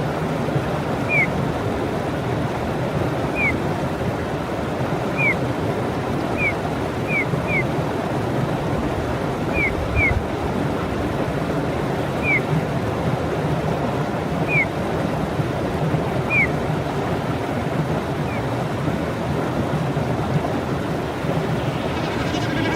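A songbird giving short, high, downward-sliding chirps, one every second or two, over a steady rushing background of wind or water noise.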